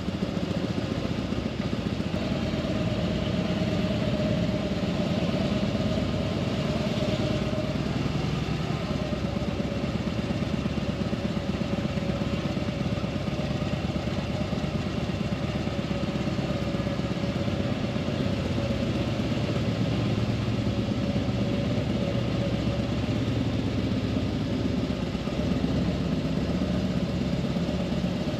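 Motorcycle engine running steadily, without a break.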